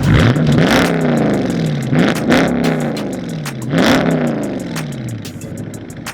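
A Dodge V8 car engine revved three times through an exhaust with the mid muffler deleted. Each rev is a quick rise in pitch followed by a slow fall, and it settles back to idle near the end.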